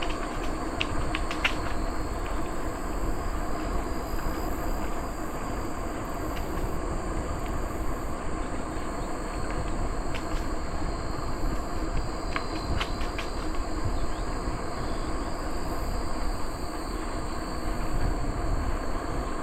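A bicycle rolling steadily along a trail: a constant rushing noise of tyres and drivetrain, with a few sharp ticks, and a steady high insect drone.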